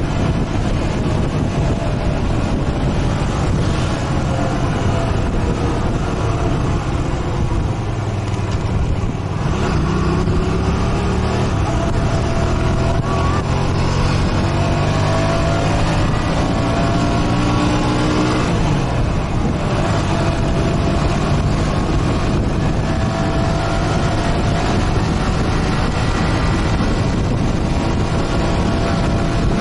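Motorcycle engine running while riding, over a steady rush of wind noise. Its pitch climbs for several seconds, drops sharply about two-thirds of the way in, then climbs again.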